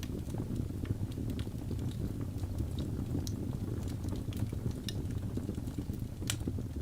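Logs burning in a fireplace: a steady low rumble of flames with scattered sharp crackles and pops, the loudest pop a little over six seconds in.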